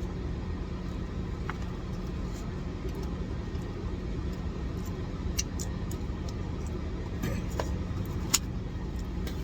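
Chewing a large mouthful of chili dog, with a few faint wet mouth clicks, over a steady low rumble and hum.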